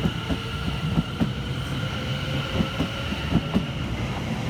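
Class 720 electric multiple unit running through the station, its wheels clacking irregularly over the rail joints, over a steady low rumble and a steady high whine.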